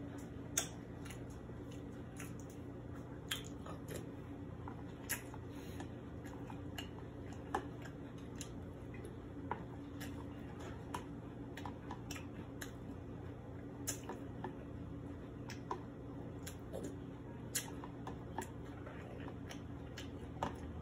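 Chewing of cereal in milk, with irregular small clicks and taps of a metal spoon in a plastic container over a steady low hum.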